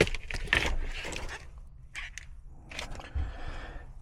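Scrapes and a series of sharp knocks as parts at an open furnace are handled, the knocks loudest in the first second and a half.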